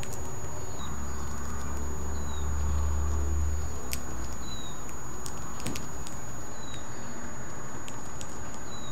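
King parrot cracking sunflower seeds in its beak: scattered sharp clicks and crunches. A low rumble rises and falls from about a second in to about four seconds in.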